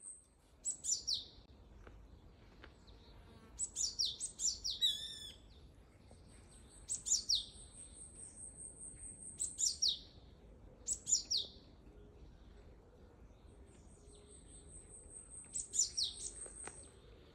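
Bird calls: short, sharp chirps sliding down in pitch, given in quick clusters of two to four every few seconds. A thin, high, steady whistle-like tone runs under them for long stretches.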